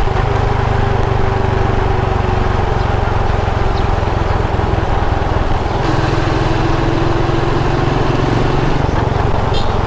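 Motorcycle engine running at a steady cruising speed, with road and wind noise, its pitch shifting slightly about six seconds in.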